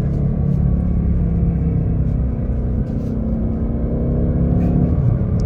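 2024 Ford Mustang GT's 5.0-litre Coyote V8 running through its active exhaust under light load on a downhill drive. It dips slightly about three seconds in and grows louder near the end.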